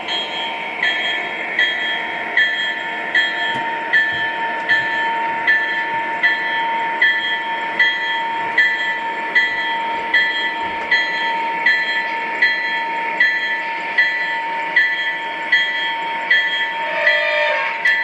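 Model Union Pacific diesel locomotives running. A steady engine drone carries a ringing beat that repeats about every 0.8 seconds.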